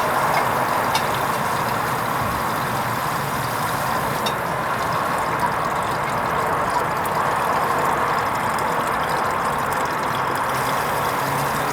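Hoover Vision HVP16 washing machine running a wool rinse programme: a steady rushing noise with a few faint clicks.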